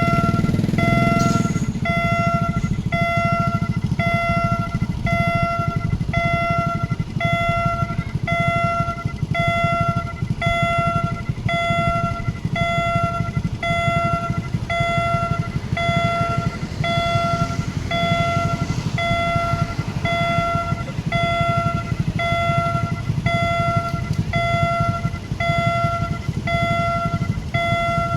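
Level-crossing warning signal sounding a repeated pitched tone, about one pulse a second, over a steady low rumble.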